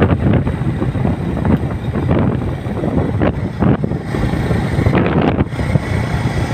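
Wind buffeting the microphone on a moving motorcycle, in uneven gusts over the motorcycle's running and road noise.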